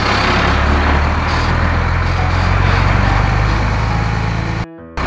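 Steady, loud vehicle-engine rumble with a noisy hiss over it, cutting out abruptly for a moment near the end.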